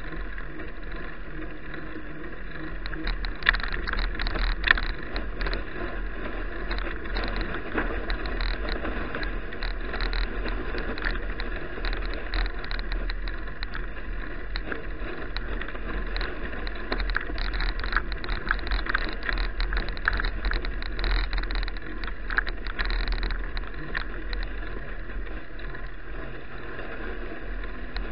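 Bicycle riding noise picked up by an action camera on the move: a steady low rumble of wind and tyres on the road, with irregular rattling clicks from about three seconds in.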